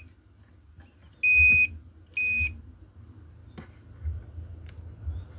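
Two short, high electronic beeps from a device's beeper, about a second apart, followed by a few faint clicks.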